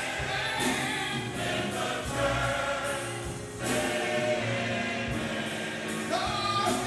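Gospel choir singing, backed by instruments with a steady bass line and sharp percussive strokes throughout.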